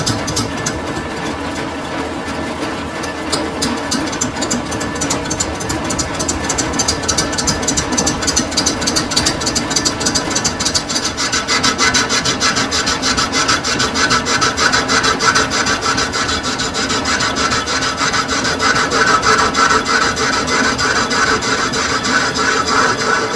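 Metal lathe turning a sugarcane juicer roller bush, the cutting tool scraping steadily against the spinning workpiece with a rasping grind. About halfway through a higher-pitched scraping tone grows stronger as the cut goes on.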